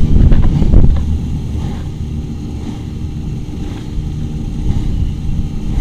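9.9 hp four-stroke outboard motor running under way, loudest in the first second and then running steadily.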